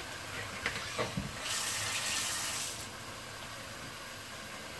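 Onions and tomatoes frying in a pot on a gas stove with a soft, steady sizzle and a few light knocks. A louder hiss rises for just over a second near the middle.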